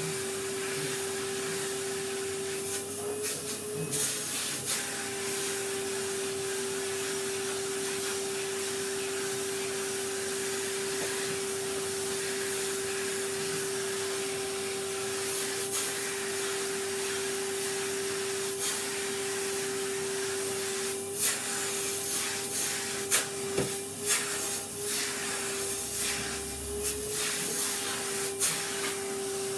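Vacuum cleaner running steadily, its motor hum lifting slightly in pitch now and then as the nozzle's airflow changes. Scattered clicks and knocks come through over it, growing frequent in the last third as debris is picked up and the nozzle knocks on the table.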